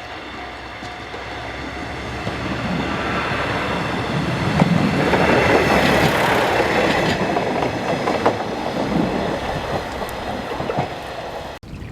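A train passing, its noise growing louder to a peak about halfway through and then fading, with wheels clicking over rail joints. The sound cuts off abruptly just before the end.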